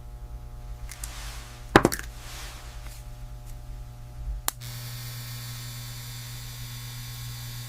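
A steady low electrical or machine hum, with a sharp click about two seconds in and another about four and a half seconds in.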